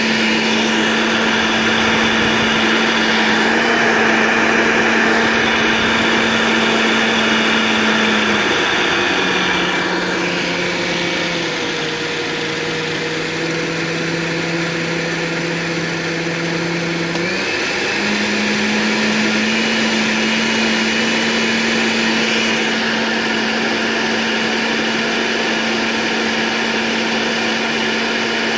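A small electric motor running steadily, like a blender's. About eight seconds in, its pitch drops as if it slows under load, and about eight seconds later it speeds back up to its first pitch.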